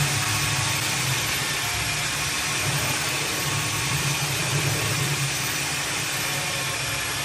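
A motor running steadily: a low hum under a broad, even hiss.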